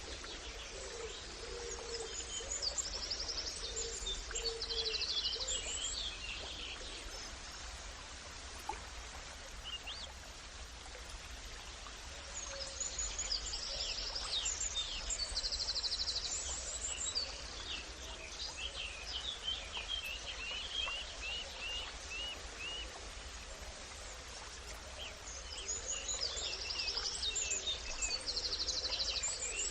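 Birds singing outdoors: bursts of quick high chirps and trills that come back about every twelve seconds, over a steady background hiss and a low hum.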